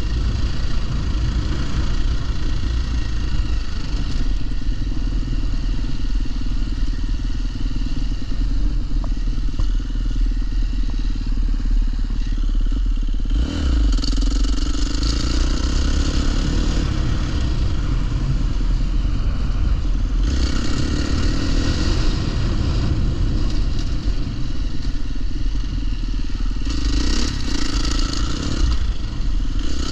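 Dirt bike engine running as the bike is ridden, its note changing a few times along the way.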